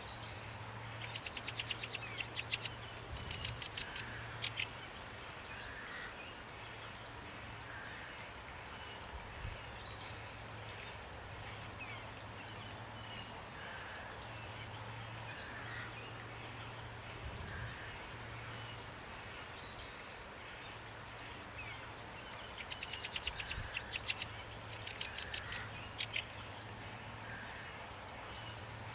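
Songbirds chirping, with bursts of fast trills, over a steady hiss of rain and a low steady hum.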